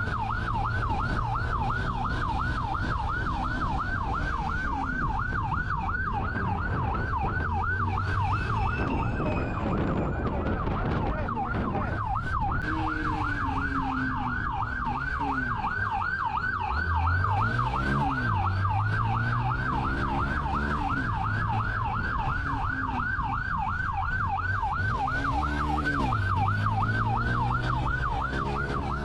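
Police car siren in a fast yelp, sweeping up and down about three times a second without a break, over a vehicle engine revving up and down during a high-speed pursuit.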